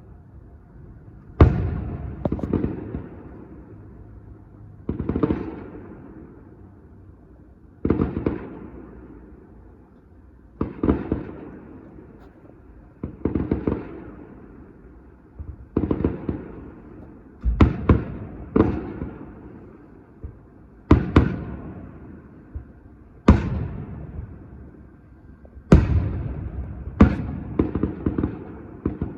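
Fireworks exploding: a string of sharp bangs a few seconds apart, sometimes two close together, each trailing off over a second or so.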